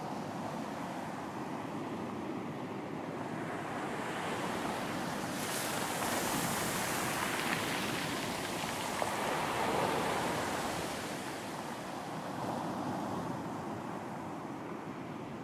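Sea waves breaking and washing up the beach, with wind. One wave surges about a third of the way in, hissing brightly as it breaks and rushes up, then recedes.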